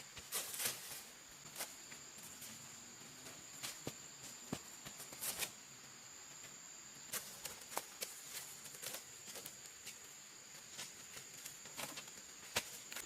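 Faint steady high-pitched insect drone, with irregular light clicks and crackles scattered through it that are louder than the drone.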